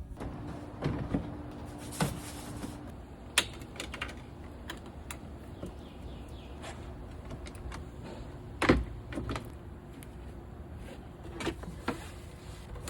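Scattered light clicks and knocks, with the loudest knock about nine seconds in, over a low steady hum.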